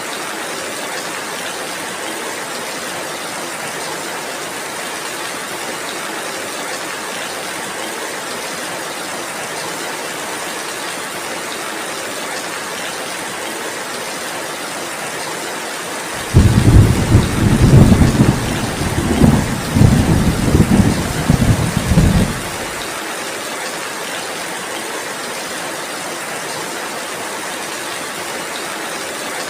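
Heavy rain falling steadily, with a loud low rumble of thunder that starts suddenly a little past halfway and lasts about six seconds before cutting off.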